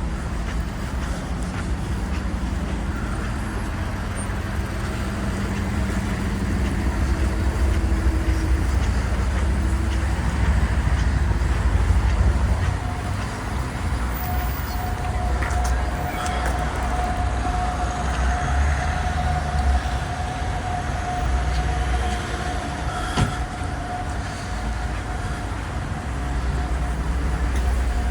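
Steady low rumble of road vehicle noise, with a thin steady whine joining about halfway through.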